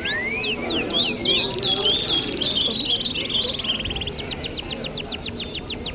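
A chorus of wild birds calling together, with many sharp downward-sweeping calls and a buzzy trill in the middle. Near the end comes a quick run of falling notes. A low murmur of people talking runs underneath.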